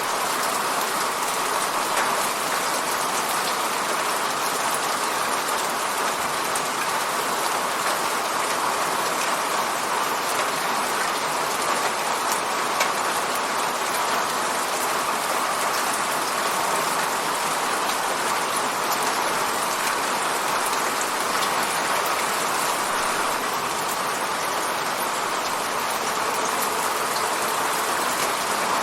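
Steady rain falling and pattering on a window, with scattered faint drop ticks.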